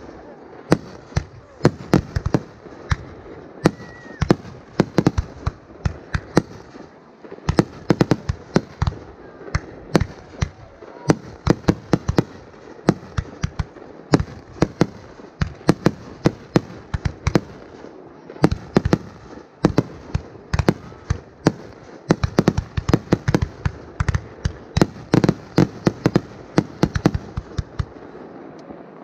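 Aerial fireworks bursting in a dense, continuous run of sharp bangs, several a second at times, with crackling between them.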